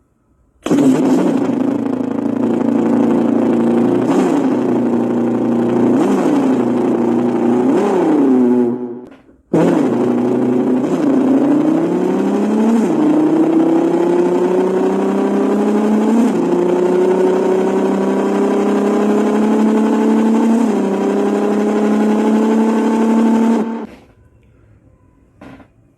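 A person imitating an engine with their mouth: a steady buzzing idle with three short rev blips, a brief break, then a long run whose pitch climbs slowly and drops back three times, like a vehicle accelerating through the gears.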